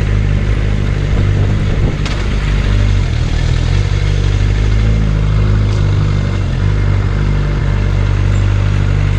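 Suzuki Bandit 600's inline-four engine running while the motorcycle is ridden, its pitch holding steady with small shifts, over a steady rushing noise.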